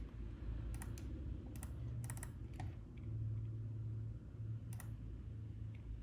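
Sharp clicks at a computer, about half a dozen at irregular intervals with a quick cluster about two seconds in, over a steady low hum.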